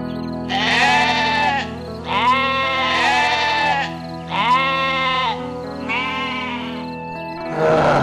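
An animal bleating four times, each call about a second long and arched in pitch, over steady background music. A rougher, noisier call starts near the end.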